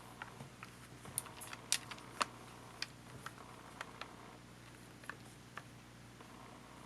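Scattered small, sharp clicks and taps of camcorder parts and small tools being handled during disassembly, about a dozen in all, the loudest two about two seconds in.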